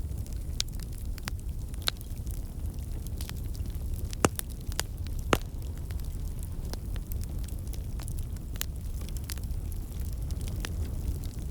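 Wood fire crackling in a fireplace: irregular sharp pops and snaps over a steady low rumble of the flames, with two louder pops about four and five seconds in.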